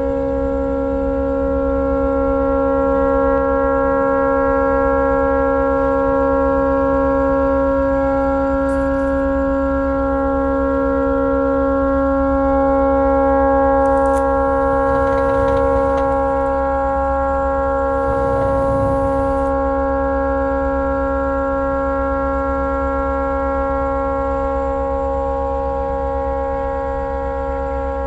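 Tugboat horn stuck on: a continuous blast of several tones sounding together, held without a break because the horn has malfunctioned. Two short bursts of rushing noise pass over it in the middle.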